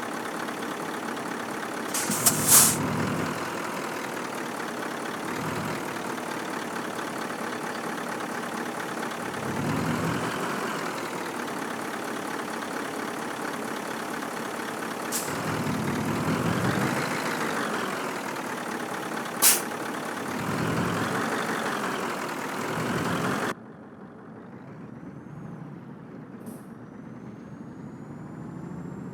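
Scania truck's diesel engine running, its revs rising and falling several times as it works along the track, with short sharp air-brake hisses about two seconds in and twice more later. Near the end the engine sound cuts off abruptly to a much quieter hum.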